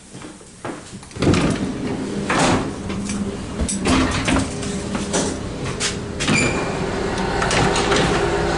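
A sliding door inside an ET2ML electric train opens about a second in, letting in the much louder rumble and clatter of the train, with sharp metallic knocks and clicks.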